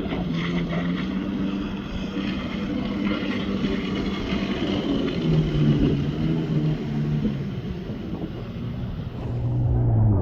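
Jet ski engine running over water, with spray and wind hiss. Its note drops in pitch in steps over the second half as the throttle eases off.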